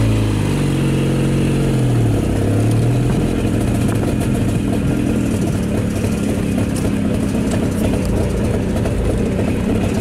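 Velorex three-wheeler's Jawa 350 two-stroke engine running while driving, heard from inside the small cabin. It revs up briefly at the start, drops back after about two and a half seconds, then runs steadily.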